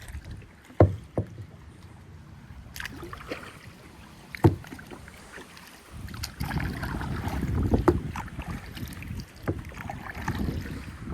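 Kayak paddling on a river: a few sharp knocks of the paddle against the kayak in the first half, then a louder low rumble from about six seconds in.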